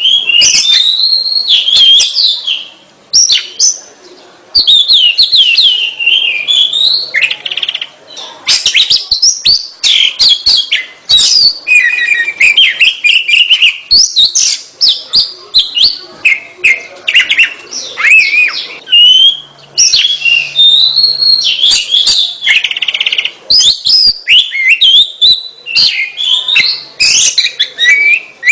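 Oriental magpie-robin (kacer) singing a long, varied song of rapid whistles, chirps and trills, almost without pause apart from a short break a few seconds in.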